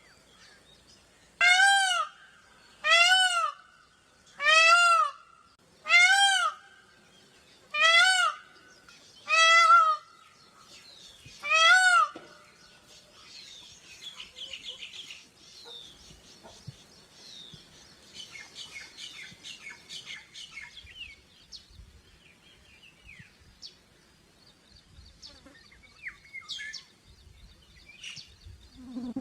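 Indian peafowl (peacock) calling: a series of seven loud, ringing calls about a second and a half apart, stopping at about twelve seconds in. Faint chirps of small birds follow for the rest.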